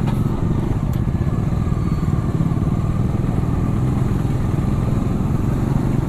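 Motorcycle engine running steadily while riding on the road, its low rumble holding an even level throughout.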